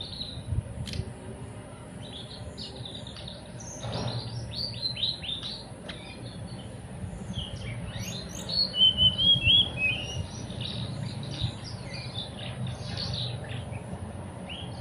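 Teledekan gunung songbird singing: runs of short, quick high chirps, with a louder warbled phrase a little past the middle.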